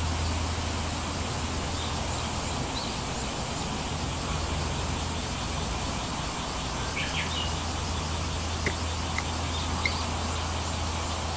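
Steady hiss of falling rain over a low, even rumble. A few short high bird chirps come about seven seconds in, and a few sharp ticks near the end.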